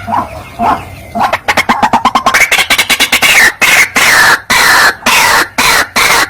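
White-breasted waterhen (ruak-ruak) calling: a few soft notes, then a fast run of short ticking notes that breaks into loud, harsh 'kru-ak' calls repeated about twice a second.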